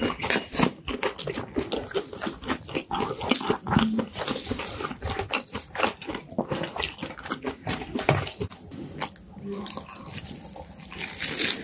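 Close-up chewing and biting of crispy fried chicken and chicken nuggets, a dense run of crunches.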